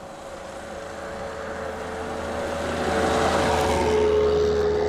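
Pre-war open roadster's engine pulling hard as the car drives closer, its steady note growing steadily louder and loudest near the end.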